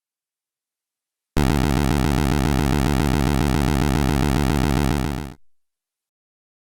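Synthesized airplane engine sound effect: a steady, low drone with a fast, even flutter that starts about a second in, holds for about four seconds and then cuts off.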